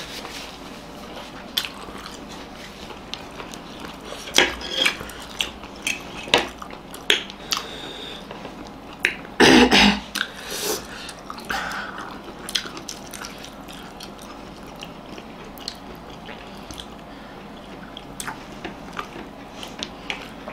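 Close-up eating sounds of two people chewing steamed momo dumplings, with scattered clicks of a fork against plates. One louder, half-second noisy sound about halfway through.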